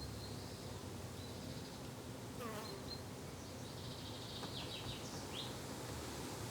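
Summer garden ambience: insects buzzing steadily, with birds chirping now and then over it, including a quick run of chirps about two-thirds of the way through.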